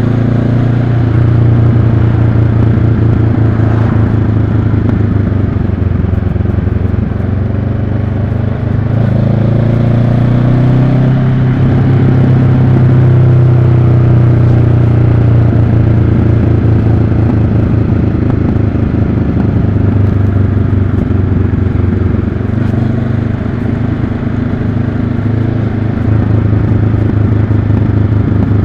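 2022 Honda CB500X's parallel-twin engine running steadily under way. Its pitch rises and falls briefly about a third of the way in as the revs change.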